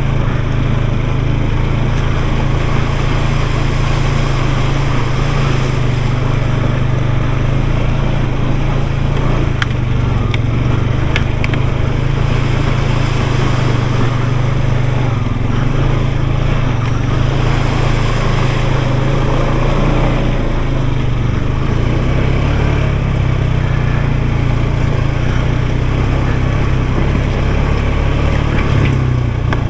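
Off-road vehicle's engine running steadily under way, a low even drone with no breaks.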